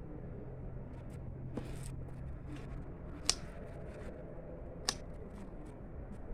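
Potato plants being pulled and handled: three sharp snaps or clicks and several fainter ticks and rustles over a steady low hum.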